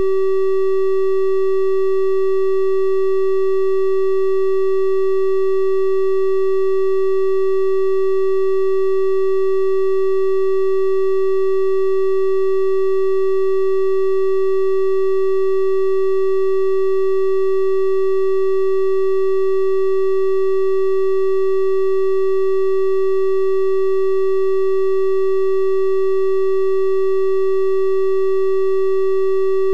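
Steady 384 Hz triangle-wave test tone, a single unchanging pitch with faint higher overtones.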